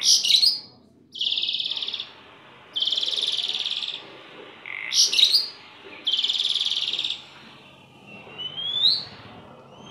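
Jalak starling singing loudly: bursts of sharp chattering notes alternate with long harsh buzzy notes held for about a second each, and rising whistles come near the end.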